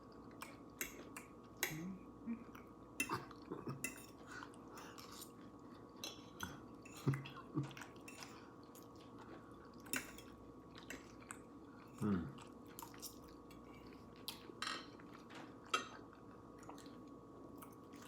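A person chewing food close to the microphone, with wet mouth sounds and scattered short, sharp clicks and crunches throughout, some of them likely utensils tapping a plate.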